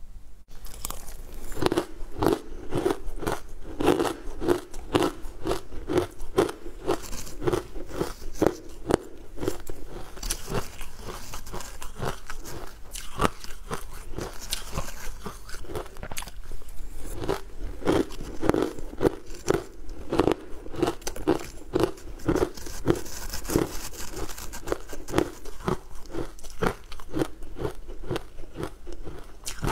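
Close-miked crunching and chewing of a crumbly, powdery green food eaten by the spoonful. Crisp crackly crunches come in steady rhythmic chews of about two to three a second, heaviest in two runs.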